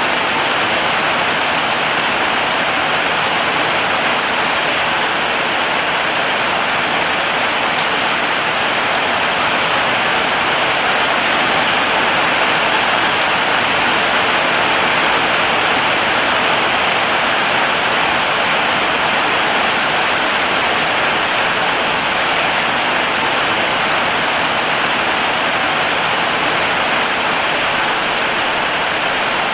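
Heavy rain falling steadily, an even hiss of drops on a surface.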